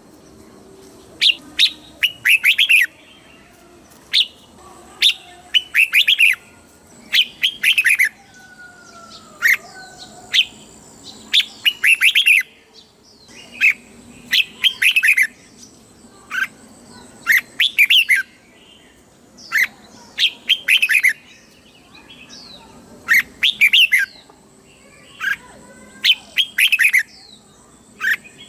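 Red-whiskered bulbul singing: short phrases of quick, bright notes repeated every second or two with brief pauses between them. This is the song keepers play to train caged bulbuls or to excite them.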